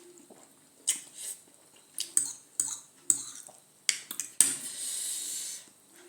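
Close-up eating sounds: a series of wet mouth clicks and smacks while chewing spicy noodles, then, about four and a half seconds in, a hissing draw of air through the mouth lasting about a second.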